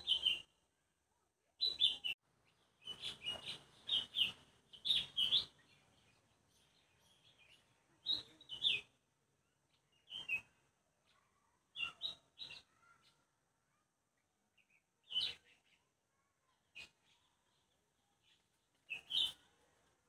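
A bird chirping in short high phrases of one to three notes, repeated every second or few seconds with quiet gaps between.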